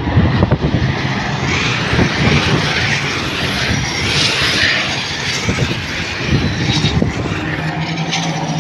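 Diesel race trucks running at full throttle as the pack goes by, a loud, steady engine drone mixed with rushing air noise. A few faint falling whines come through near the end.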